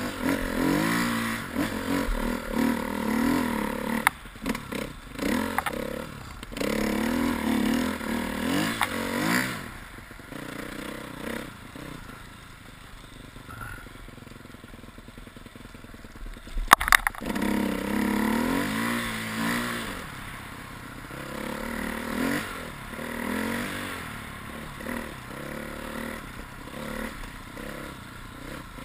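Husqvarna TE 250 single-cylinder enduro motorcycle engine revving up and down repeatedly as it rides through snow, dropping to a quieter low run in the middle before revving hard again. One sharp clack stands out just after the middle.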